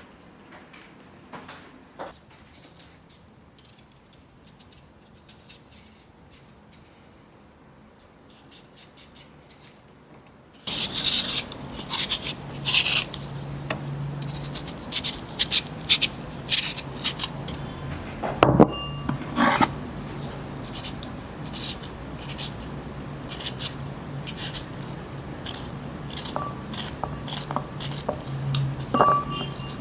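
Household handling sounds, dishes and utensils clinking, scraping and rubbing. A few faint clicks at first; about ten seconds in the sound suddenly becomes louder, with frequent sharp clatters over a steady low hum.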